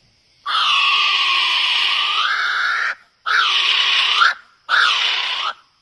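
A bird giving three long, harsh screeching calls: the first about two and a half seconds long, the other two about a second each, each bending in pitch near its end.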